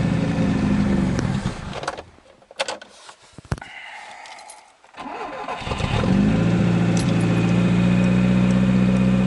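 VAZ 2107 engine running, then dying away and stalling about two seconds in. After a few seconds of quiet with some clicks, it starts again about five seconds in and runs steadily. The engine will not keep running on its own.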